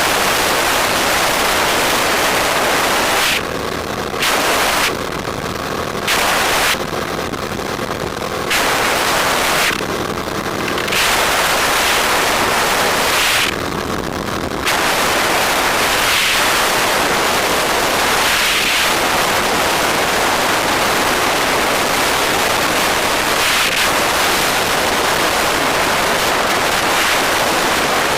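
Wind rushing over the microphone of a moving motorbike, a loud steady rush that drops back briefly several times in the first half.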